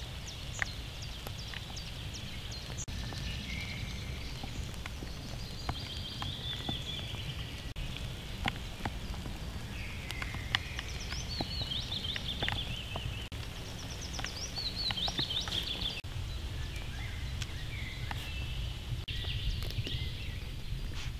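Steady rain in a forest, with scattered taps of single drops and songbirds singing trills on and off.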